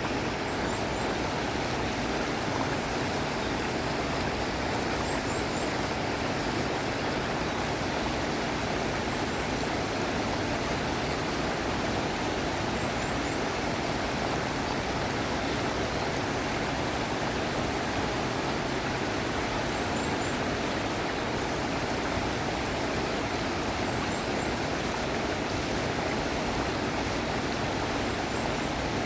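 Mountain valley stream running, a steady, even rush of water that does not change.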